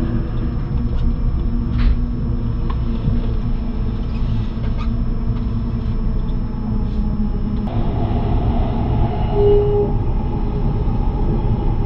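Limited express Kaiji electric train running at speed, heard from inside the car: a steady low rumble of wheels on rails with a few faint clicks. About eight seconds in the noise grows louder, and a brief tone sounds just after.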